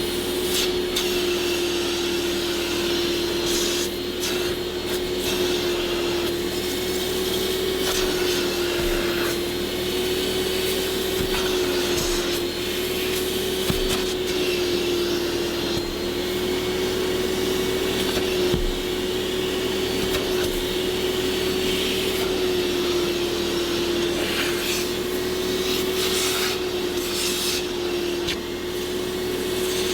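Steady hum of an electric motor from car-detailing equipment, its pitch wavering only slightly, with continuous scratchy scrubbing of a brush on fabric upholstery or carpet.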